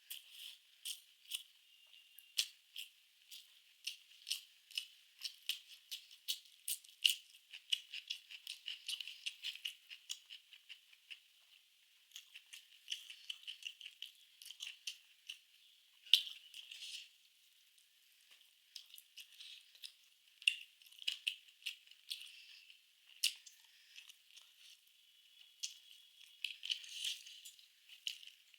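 Close-miked eating sounds: chewing and mouth smacks, a rapid run of small clicks and crackles with a few short pauses.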